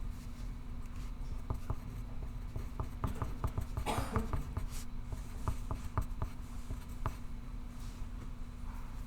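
Pencil writing on paper: light, irregular taps and scratches, with a brief louder rustle about four seconds in, over a steady low hum.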